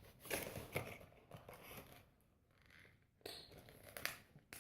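Faint scraping and rustling with a few sharp clicks as a small boxed model airplane is opened by hand.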